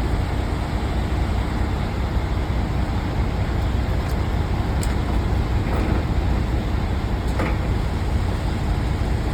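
Semi truck's diesel engine and road noise, a steady low rumble with a faint steady hum and a few light ticks.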